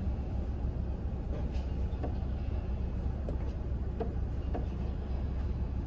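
Car engine idling, heard from inside the cabin as a steady low hum, with a few faint short sounds about two and four seconds in.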